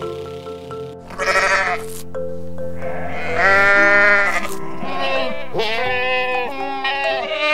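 Sheep bleating over steady background music: a short bleat about a second in, then two longer bleats whose pitch wavers.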